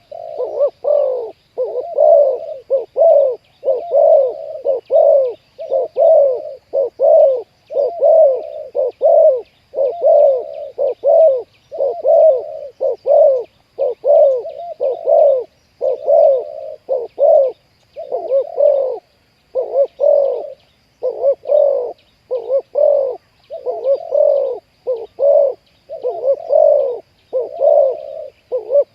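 Spotted doves cooing over and over in a continuous run of short, low coos, about one to two a second.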